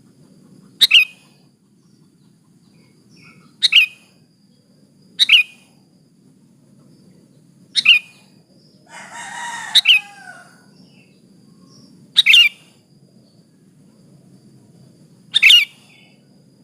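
Sooty-headed bulbul (kutilang) giving short, sharp single calls, seven in all, a few seconds apart: a female's call to a male. About nine seconds in, a longer, rougher sound comes in under one of the calls.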